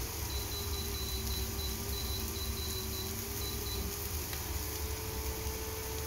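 Bitter gourd and egg frying in a pan: a steady soft sizzle over a low, constant hum, with a faint broken high tone in the first four seconds.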